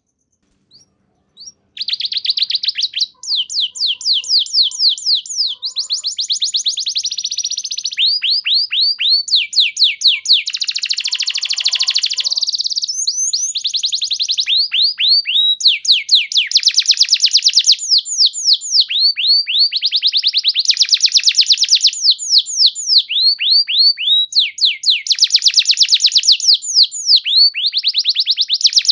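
Domestic canary singing: phrase after phrase of rapid trills, each a fast run of high notes sweeping down, with almost no break between phrases after a short pause at the start.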